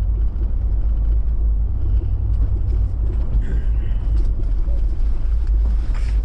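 Steady low engine and road rumble inside the cabin of a Toyota 4x4 driving on snow-covered streets.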